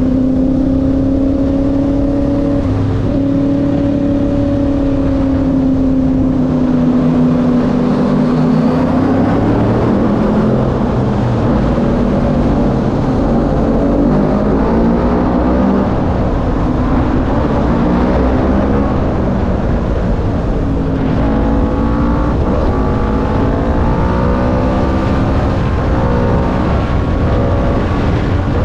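Motorbike engines running while riding. One engine note holds a steady pitch for about the first eight seconds, then several engine notes overlap and shift up and down, some rising near the end, over a constant low rumble.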